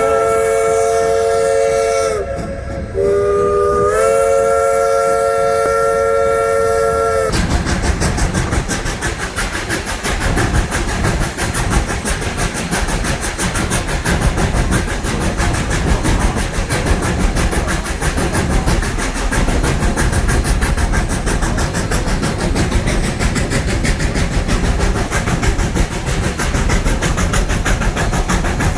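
A 1920 Baldwin steam locomotive's whistle blows twice, the second blast ending about seven seconds in. It is followed by the steady noise of the train running, a hiss and rumble with a rapid clatter.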